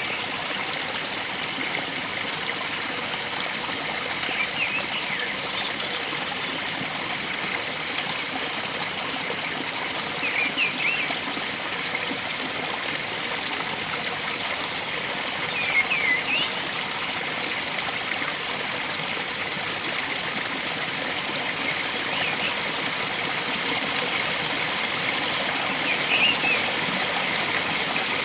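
Steady rushing of flowing stream water, with a bird giving short chirps about every five to six seconds above it.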